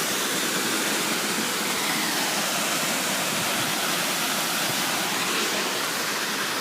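Pistyll Rhaeadr waterfall, heard close up: a steady, even rush of falling water that does not change.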